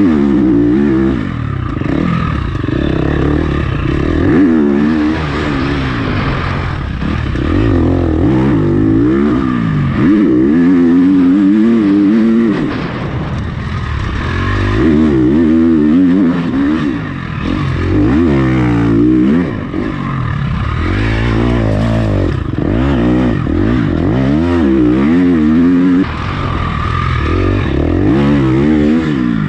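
Motocross bike engine being ridden hard, revving up and dropping back again and again every few seconds as the rider works the throttle and gears around a short track.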